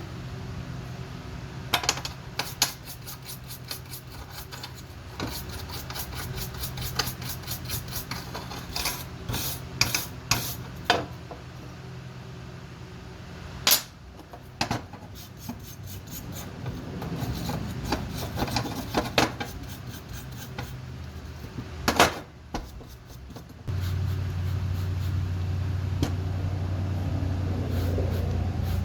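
Hand tools scraping, rubbing and clinking on metal in irregular strokes, over a steady low hum that turns louder about 24 seconds in.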